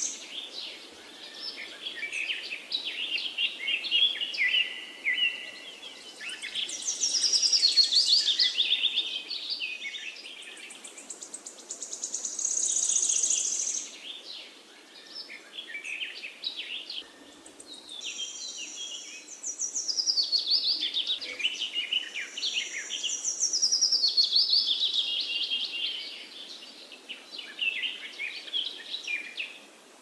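Songbirds singing in repeated bursts of fast high chirps and quickly descending trills, now and then holding a thin high note for a second or so.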